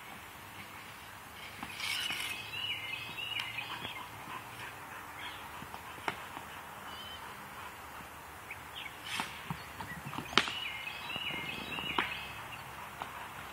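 A songbird sings a short phrase of quick, stepped whistled notes twice, about two seconds in and again about ten seconds in, over a steady outdoor hiss. A few sharp knocks sound between them; the loudest comes just before the second phrase.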